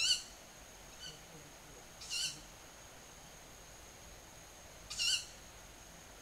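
Short, high, quavering calls of an unidentified night-calling bird. There are three clear calls, at the start, about two seconds in and about five seconds in, with a fainter call between the first two.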